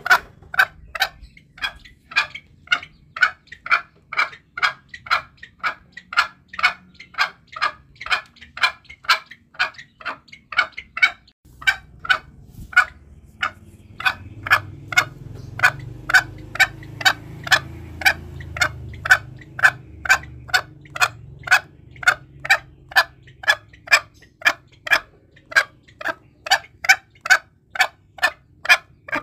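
Green junglefowl calling in a long, even series of short clucks, about two a second. A low background rumble rises for several seconds in the middle.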